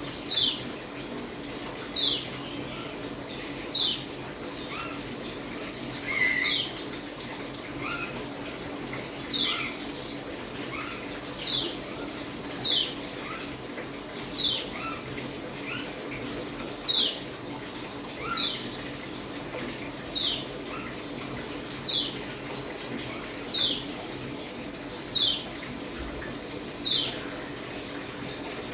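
Pleci (white-eye) giving a short, high call note that falls in pitch, repeated regularly about every one and a half to two seconds over a steady background hiss.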